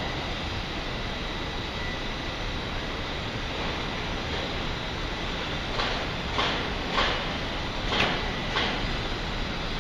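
Steady city street and traffic noise. Near the end comes a run of five short knocks, about two a second, louder than the background.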